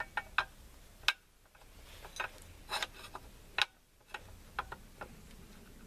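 Irregular light clicks and taps of small metal rifle parts being handled and fitted, about ten of them spread unevenly, the sharpest about a second in.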